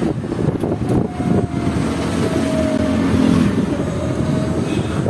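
Engine and road noise of a moving motor vehicle, heard from on board: a dense, steady rumble, with a humming engine tone swelling through the middle.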